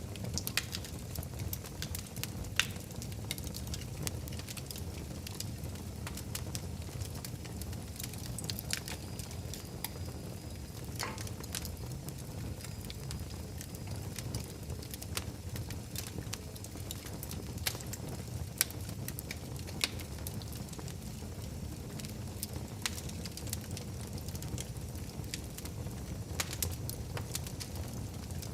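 Fireplace fire crackling: a steady low rumble of flames with frequent sharp pops and crackles, a few of them louder than the rest.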